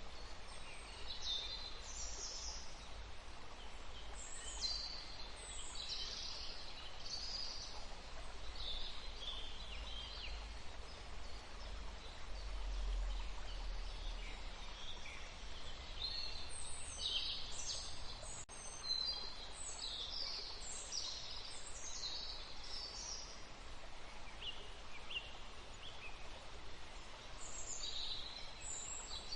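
Forest birdsong: several small birds chirping and trilling in short high phrases, busiest in the second half, over a steady low rumble.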